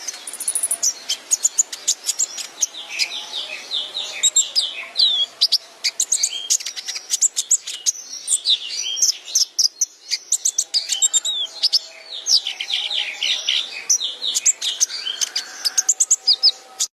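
Kolibri ninja sunbird singing a nonstop 'hadal' song: a rapid, unbroken stream of high sharp chirps, quick sweeping notes and trills.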